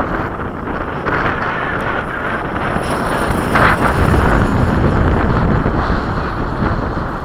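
Strong wind buffeting the microphone, with the faint high whine of an electric ducted-fan RC F-16 jet swelling and fading about halfway through as it passes.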